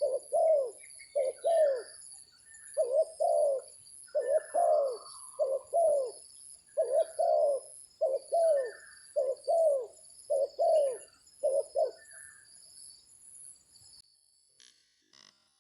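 Spotted dove cooing, its phrases of repeated rolling coos coming one after another for about twelve seconds before stopping. Steady high insect buzzing sounds underneath and fades near the end.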